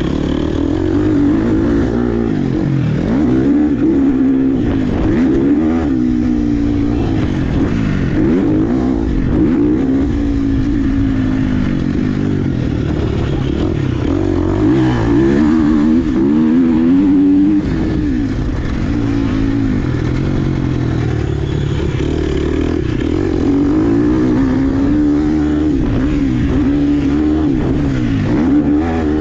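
Dirt bike engine revving up and down as it is ridden around a motocross track, its pitch rising and falling every second or two through acceleration, shifts and braking.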